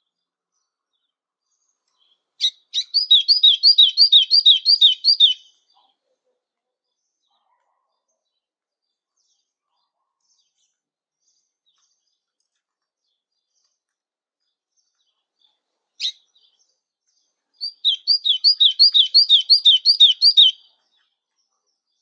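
Golinha (white-throated seedeater) singing two song phrases. Each phrase is a quick run of about nine repeated down-slurred notes lasting about three seconds, the first a few seconds in and the second near the end, with a single sharp chip shortly before the second.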